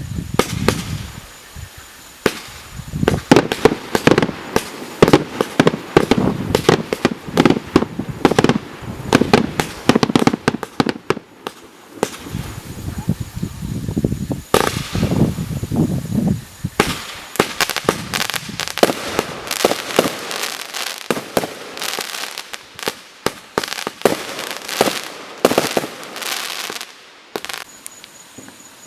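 Display firework cakes firing: rapid volleys of sharp bangs and crackles, with a brief gap about twelve seconds in, then thinning out and dying away near the end.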